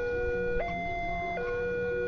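Railway level-crossing warning alarm sounding an electronic two-tone hi-lo signal. It switches between a low and a high note about every three-quarters of a second, warning that a train is approaching.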